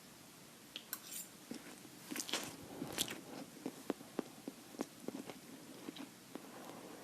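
Close-miked mouth eating sounds: biting and chewing with crisp clicks and crunches. They start about a second in, are loudest around the middle, then settle into a few chewing clicks a second.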